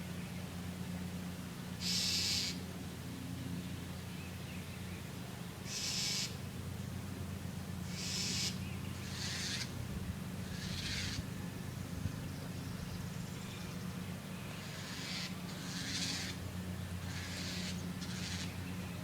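A bird's repeated harsh alarm calls, about ten short rasping calls at uneven gaps, as it scolds and dive-bombs a cat. A steady low hum runs underneath.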